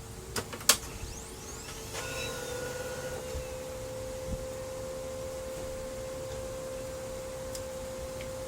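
Brother MFC-L2740DW laser printer starting up after power-on. A couple of sharp clicks come first, then about two seconds in its drive motor spins up and runs with a steady hum as the mechanism initializes.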